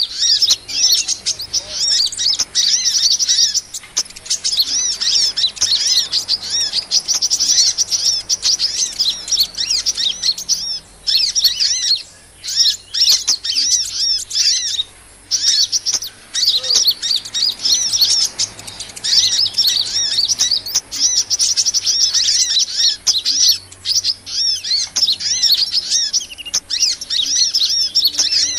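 Sunbirds (Indonesian 'kolibri') chirping and twittering in fast, high, near-continuous runs, with a few short breaks; a bird-trapping lure call recording.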